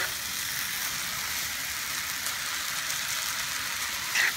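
Egg noodles and vegetables sizzling steadily in a hot pan as they are stir-fried, with a scrape of the utensil against the pan as it begins and again near the end.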